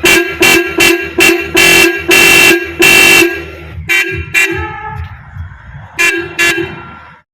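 Roots electric horn on a motorcycle honking about eleven times in short and longer blasts, one steady note each, most of them in quick succession over the first three seconds and two more near the end.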